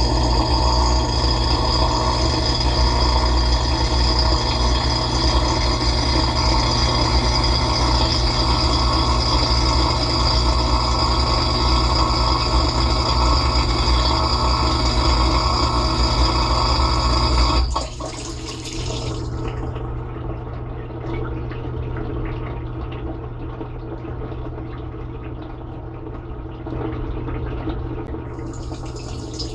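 Dishwasher running, heard from inside the tub: the wash pump hums steadily under the hiss of spraying water, then cuts off abruptly about two-thirds of the way through, leaving a quieter sound of water moving in the machine.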